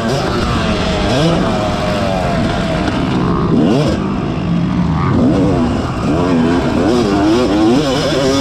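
Yamaha YZ250 two-stroke motocross bike engine being ridden, revving up and easing off again and again. Other motocross bikes' engines run alongside, their pitches rising and falling across each other.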